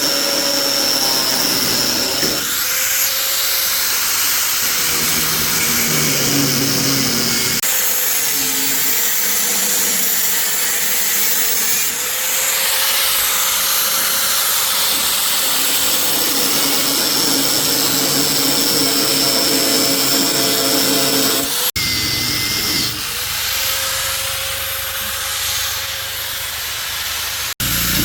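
Power tools running steadily with a loud high-pitched hiss and whine, broken into several segments by abrupt changes about 2, 8, 12 and 22 seconds in.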